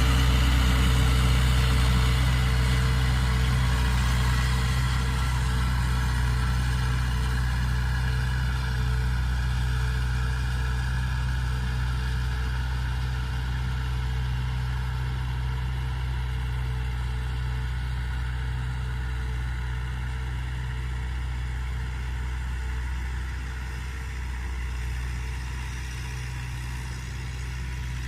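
Mahindra tractor's diesel engine running steadily, slowly growing quieter.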